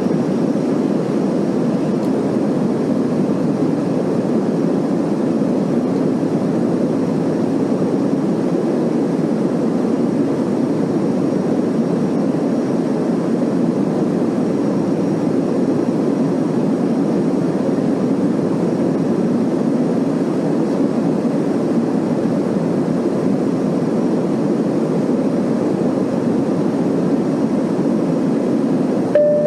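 Steady cabin noise of an airliner in flight: the constant rush of engines and airflow heard from inside the passenger cabin. A brief tone sounds right at the end.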